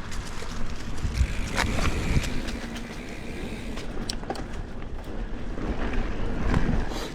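Mountain bike rolling along a dirt trail: a steady rumble of tyres over the ground with scattered clicks and rattles.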